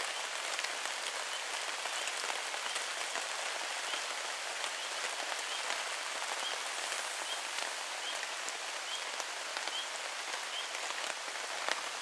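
Steady rain falling on a hammock tarp shelter, with a faint short chirp repeating about once a second through the middle.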